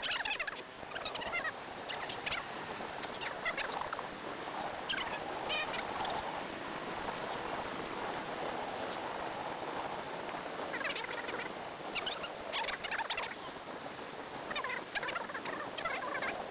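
Steady rushing wind and riding noise from a moving Zero DSR/X electric motorcycle, with scattered crackles and chirps on top.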